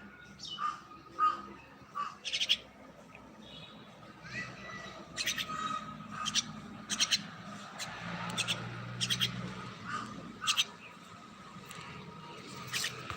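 Common myna calling: a string of a dozen or so short calls at irregular intervals.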